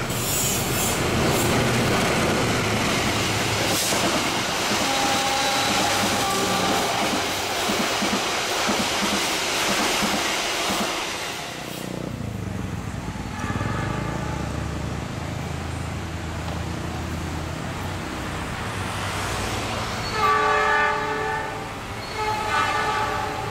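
Diesel-electric locomotive-hauled passenger train passing at speed, with a loud rush of wheel-on-rail noise. After a cut, a second diesel locomotive approaches with its engine rumbling low and steady, and sounds its horn in two blasts near the end.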